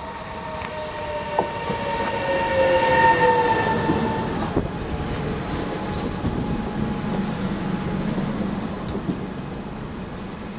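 Regional electric train passing close by on a curve. Wheel squeal is heard as high tones in the first four seconds or so, one of them falling in pitch. After that comes the steady rumble of the carriages rolling past.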